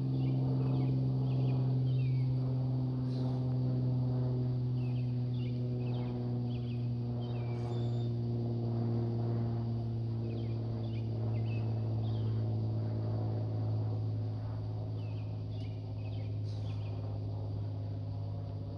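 Aircraft engine drone: a steady low hum that slowly fades and drops slightly in pitch, with small birds chirping throughout.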